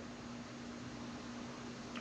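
Steady background hiss with a faint, even hum: room tone, with a small click near the end.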